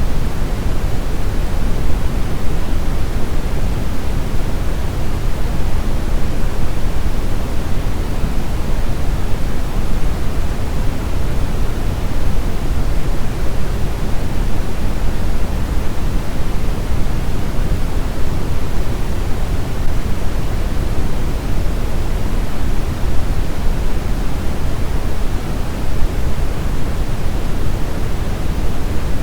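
Steady brown noise: an even, unchanging rumbling hiss, strongest in the low end and falling off toward the treble.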